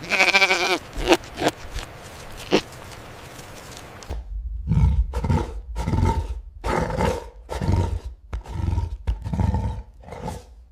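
Animal calls: a loud pitched call at the start followed by a few short ones, then a run of about a dozen short calls, roughly two a second.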